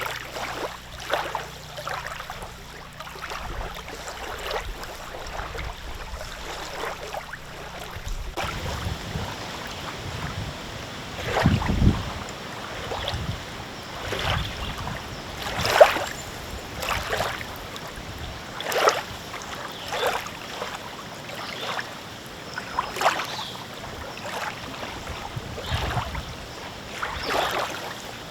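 Small wind-driven lake waves lapping and slapping, irregular splashes every second or two, over a steady hiss of wind. One heavier low thump comes about twelve seconds in.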